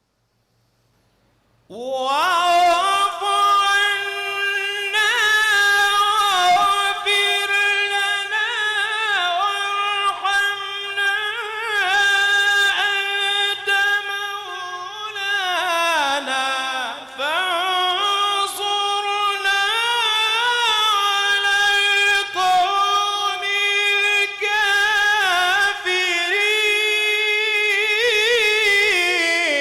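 Quran recitation: after a pause of about two seconds, a single voice sets in and holds a long, ornamented melodic phrase in tajwid style. The pitch dips low and climbs back up around the middle, then keeps wavering to the end.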